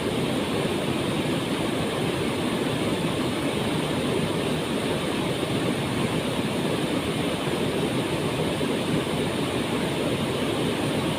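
Waterfall pouring steadily into its pool: a constant, even rush of falling water with no change in level.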